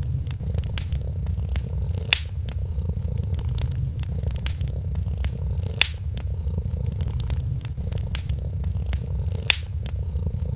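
A cat purring steadily, a low continuous rumble, over a wood fire crackling with scattered small clicks and three sharper pops spaced a few seconds apart.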